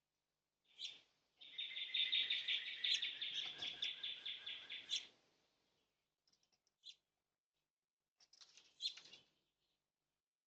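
Small birds chirping, with a rapid run of chirps lasting about three and a half seconds, then a few shorter calls near the end.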